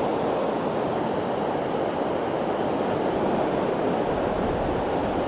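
Steady rushing of ocean surf breaking on the beach, with wind on the microphone.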